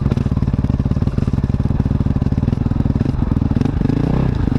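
An engine running steadily with a fast, even pulse, its note shifting slightly near the end.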